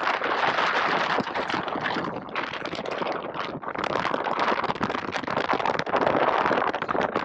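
Strong wind buffeting the microphone with a crackling, gusting rush, mixed with water rushing and splashing.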